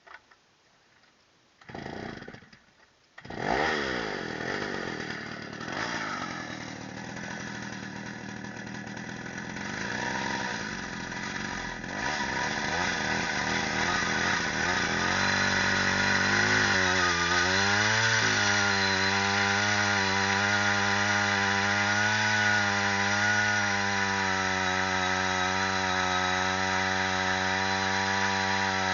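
Ural two-stroke chainsaw starting: a short burst of firing about two seconds in, then it catches and runs with its speed wavering. From about halfway it runs steadily and louder, with one brief dip in revs.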